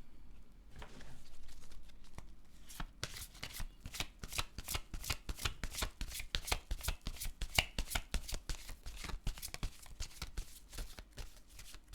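A deck of tarot cards being shuffled by hand: a soft rustle, then from about three seconds in a fast, continuous run of crisp card flicks and slaps.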